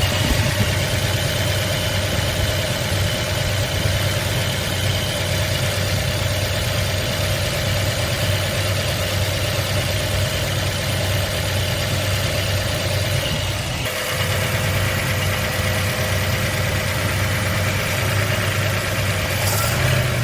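Ford 351 Cleveland V8 with Holley Sniper EFI running steadily, with a low even hum and no revving.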